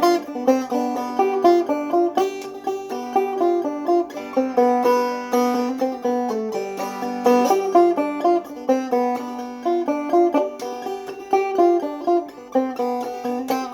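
Open-back Deering banjo with a 20-hole flathead tone ring played clawhammer style: an instrumental break of quick plucked melody notes over a steady drone string.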